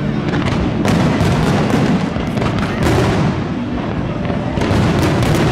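Aerial fireworks bursting in rapid, overlapping succession: a continuous rumble of booms with many sharp crackles and pops.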